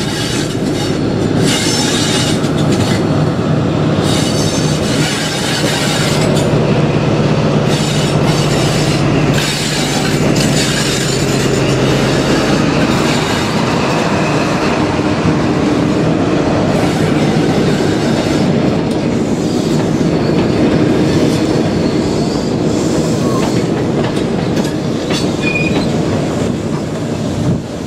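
InterCity 125 (HST) running into the platform, led by Class 43 power car 43048. The power car's diesel engine gives a steady note as it comes up and passes, until about 12 seconds in. After that the Mark 3 coaches roll past with the rumble of wheels on rail and some high-pitched squealing.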